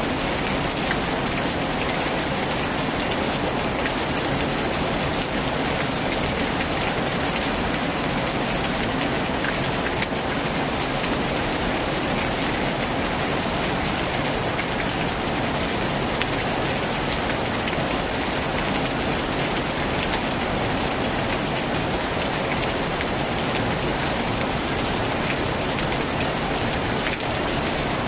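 Heavy rain falling steadily on a tin roof, a dense, even patter with no change in strength.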